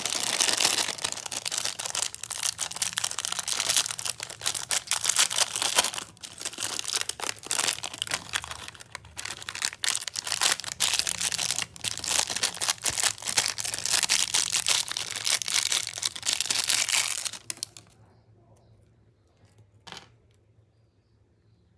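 Plastic snack wrappers being crinkled and crumpled by hand, a dense run of crisp crackles that stops about three-quarters of the way through. A single sharp click follows near the end.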